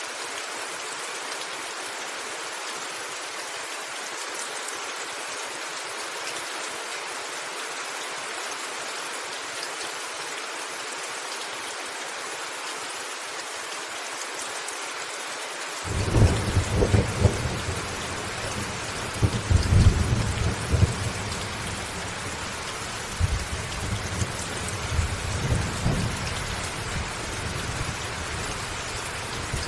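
Steady rain falling on a roof. About halfway through, a rolling rumble of thunder breaks in suddenly, swells several times and then dies away under the rain.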